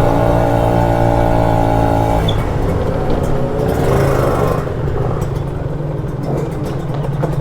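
Kawasaki Ninja RR's single-cylinder two-stroke engine running, holding a steady note for about two seconds and then changing pitch as the throttle varies.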